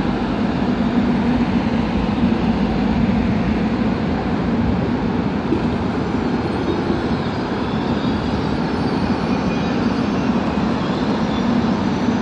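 Seoul Subway Line 1 electric train moving slowly along the platform: a steady rumble of wheels and running gear, with a faint high electric whine coming in about halfway.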